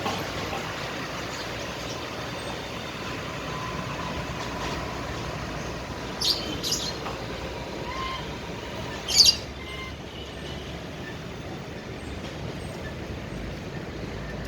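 Cockatiel giving three short, shrill calls over steady background noise: two close together about six seconds in, and a louder one about three seconds later.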